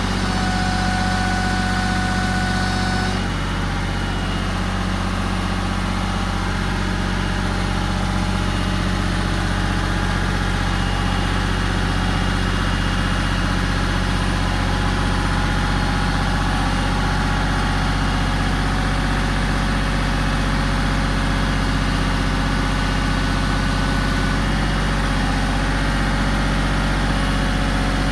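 Tractor engine idling steadily, a low, even drone. A thin high whine riding over it drops out about three seconds in.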